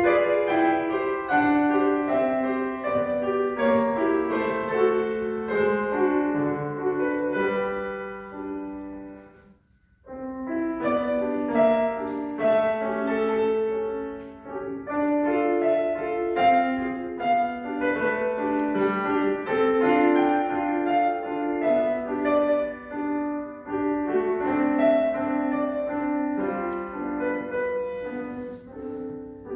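Solo piano played by a young music-school student: a lyrical classical piece with a sustained melody over chords. It breaks off briefly about ten seconds in, then resumes.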